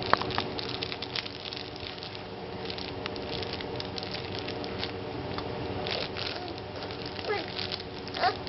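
Scattered clicks and rustles of handling over a steady hum, with a couple of short gliding squeaky vocal noises from a baby near the end.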